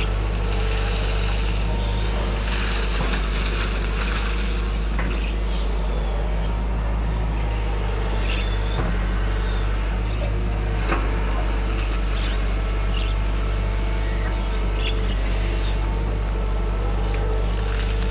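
Hydraulic excavator's diesel engine running steadily at a constant pitch, with a few faint knocks over it.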